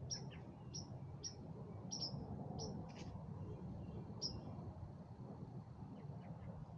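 A bird calling with short, high chirps, about two a second, that stop a little past halfway, over a steady low rumble.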